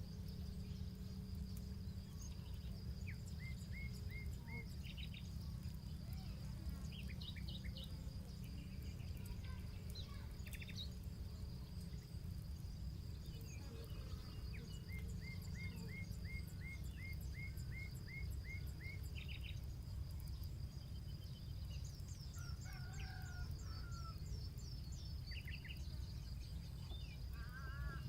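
Paddy-field ambience: small birds calling in quick runs of evenly repeated chirps over a steady high insect drone and a low rumble, with faint scattered crackles from a campfire.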